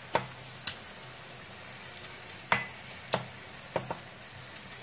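Grated potato and egg mixture frying in plenty of oil in a nonstick pan, a steady sizzle. A wooden spoon knocks against the pan about six times as the mixture is pressed and spread.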